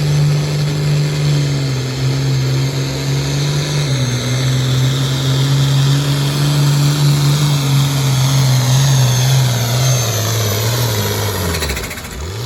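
Modified farm pulling tractor's engine at full throttle under heavy load, hauling the weight-transfer sled. Its pitch sinks slowly as the sled digs in and the engine lugs down, then falls away steeply near the end as the run ends and the throttle comes off.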